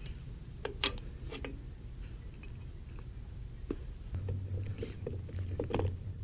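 A few scattered light clicks and clinks of drum-brake hardware (springs, adjuster, shoes) being handled and worked loose, with a low steady hum coming in about four seconds in.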